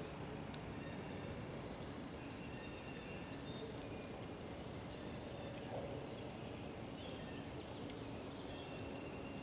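Wild birds chirping on and off in the woods, with a brief trill about two seconds in, over a steady outdoor background hiss and a few faint crackles.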